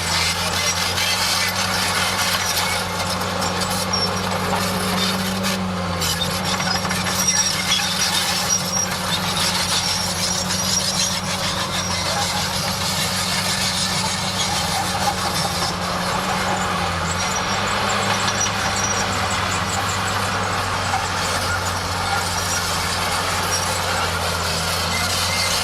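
Bulldozer working, its diesel engine running at a steady note that dips briefly twice, under continuous mechanical clatter and rattle.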